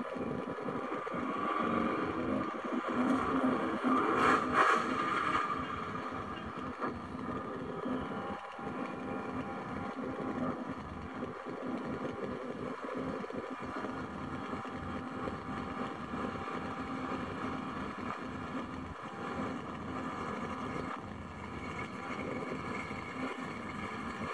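Drag race cars' engines running at speed, loudest for the first five seconds, then a steady, lower drone.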